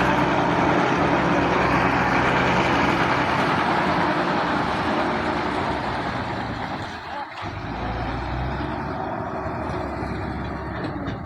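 Combine harvester running: a steady engine note under a dense mechanical rush. It dips briefly about seven seconds in and carries on quieter.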